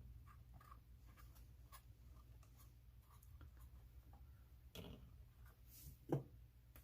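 Faint clicks and light scraping of small RC crawler axle parts being handled during reassembly, with one sharper knock about six seconds in.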